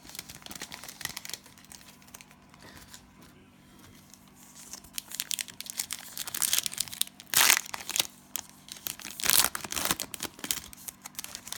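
Cellophane trading-card pack wrapper crinkling as it is torn open and handled. Two louder crackling bursts come about seven and nine and a half seconds in.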